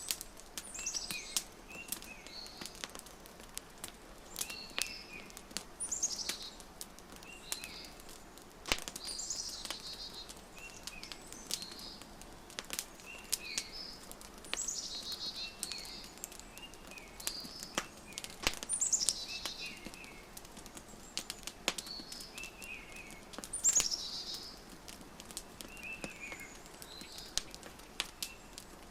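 Small birds chirping, with a call that sweeps down in pitch repeating every few seconds and shorter, lower chirps between, over the scattered sharp pops of a crackling wood fire.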